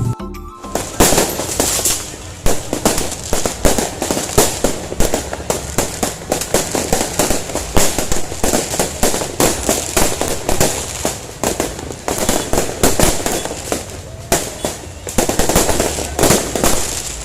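Fireworks going off in a dense, rapid string of cracks and bangs, several a second, starting about a second in and easing briefly near the end before picking up again.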